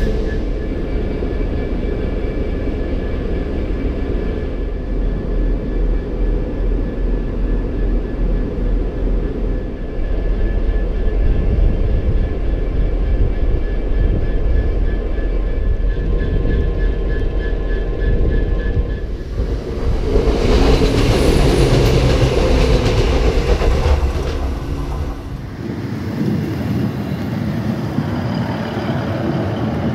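EWS Class 66 diesel locomotive (EMD two-stroke V12) running past hauling tank wagons: a steady deep engine drone with a few thin steady whines, then from about 19 s a louder rush of wheels on rail as the wagons pass close. About 25 s in, the sound changes abruptly to a passenger diesel multiple unit running over a level crossing.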